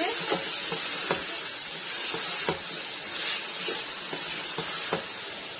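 Chicken pieces and spices (cumin seeds, chili flakes) sizzling as they fry in a metal pot, with a steady hiss. A wooden spoon stirs them, knocking against the pot a few times.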